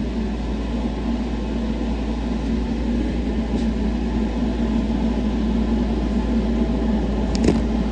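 Steady low mechanical hum, with one light knock near the end.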